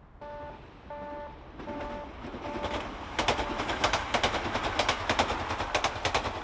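A passing passenger train: its wheels clatter rapidly over the rail joints, growing louder from about three seconds in. Before that, and under the clatter, a warning bell dings in two tones about every 0.7 s, like a railway level-crossing alarm.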